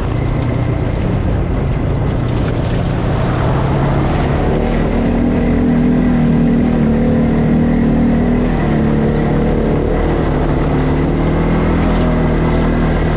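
ATV engine running under way, its note climbing about five seconds in and easing back a few seconds later.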